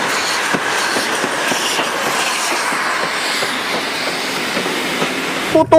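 Train running along rails, a steady rumble with wheel clatter. A loud, steady train horn note starts just before the end.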